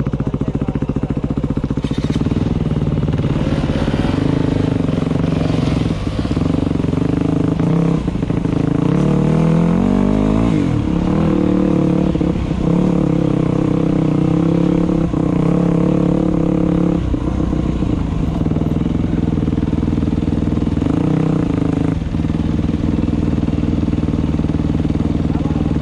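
Dirt bike engine running as the bike is ridden along a trail, the throttle opening and closing. The revs rise and fall about a third of the way in, with short dips in engine note here and there.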